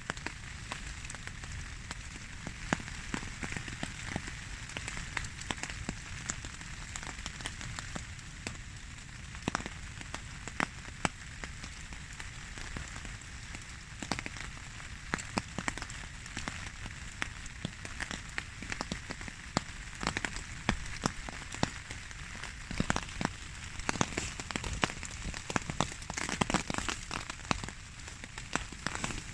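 Wind rumbling against the microphone at night in woodland, with a constant scatter of small irregular ticks and crackles.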